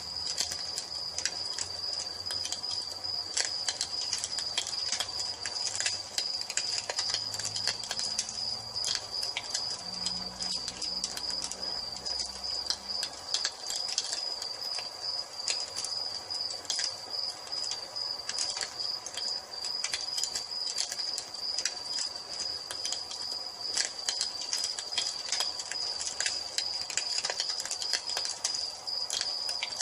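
Wood fire crackling with scattered sharp pops, over crickets chirping in a steady high trill.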